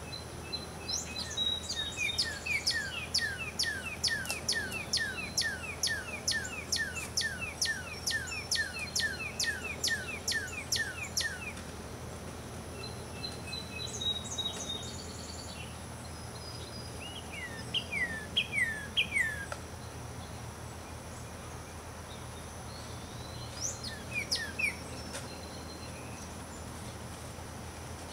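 Songbirds chirping: a rapid run of falling chirps, about three a second, lasts roughly ten seconds, then a few short bursts of chirps follow. A low steady background noise runs underneath.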